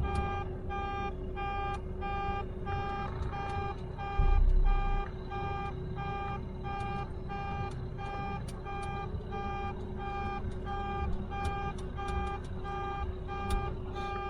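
A truck's backup alarm beeping steadily, about two beeps a second, over a low idling-engine rumble, with one brief heavy low thump about four seconds in.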